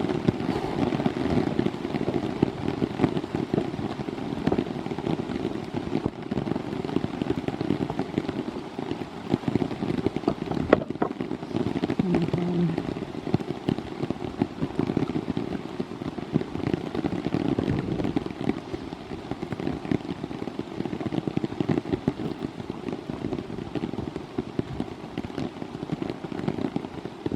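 Rain falling steadily, a dense patter of drops, with one sharper tick about eleven seconds in.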